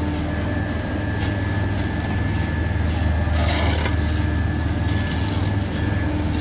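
Heavy road-construction machinery engine running steadily at an asphalt paving site: a deep, even hum with a faint steady whine above it.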